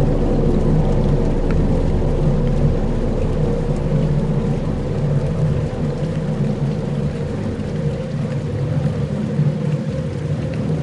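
Dark ambient soundscape: sustained low drones under a steady rain-like hiss and rumble.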